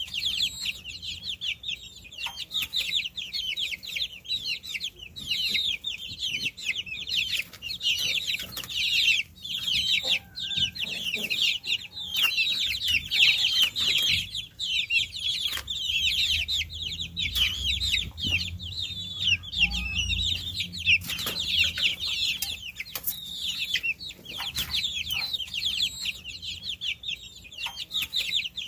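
A brood of baby chicks peeping without a break: many high, short peeps overlapping. A low rumble sits under them for a few seconds in the middle.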